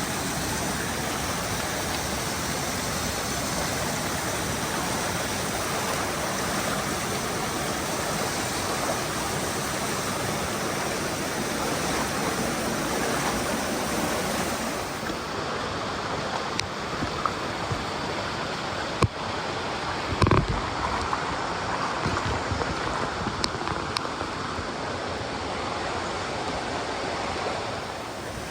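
Steady rush of a mountain stream flowing over boulders. A few sharp knocks about two-thirds of the way through, the loudest a single dull thump.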